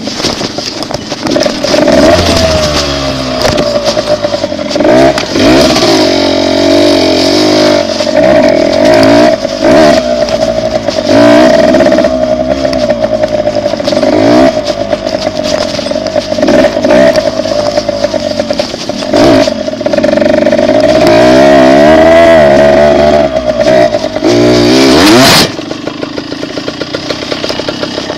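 Yamaha RT100 two-stroke dirt bike engine being ridden under throttle, its pitch rising and falling again and again as the rider opens and closes it. About 25 seconds in it drops back to a lower, steady idle.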